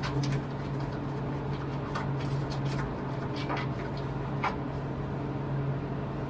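Scattered light clicks and taps of hand tools worked against plywood, irregular, a few a second, over a steady low hum in the workshop.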